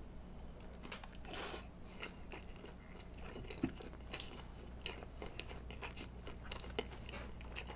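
Close-miked chewing: a bite, then small wet clicks and crunches of a mouth working food, over a low steady hum.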